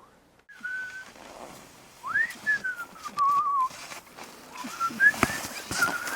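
A person whistling a wandering tune in pure, clear notes that glide up and down, with a short wavering note in the middle. A sharp click comes about five seconds in.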